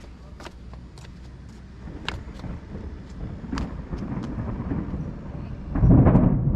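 A motor vehicle growing louder as it approaches, loudest near the end, with a few sharp clicks in the first seconds.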